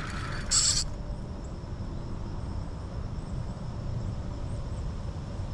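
Wind rumbling steadily on the microphone, with a faint steady high tone above it. A short hiss about half a second in is the loudest sound.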